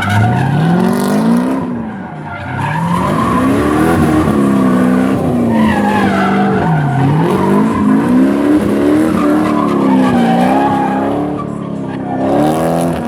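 Corvette V8 engine in a BMW 325i drift car revving hard, its note rising and falling repeatedly, with tyres squealing and skidding under a drift.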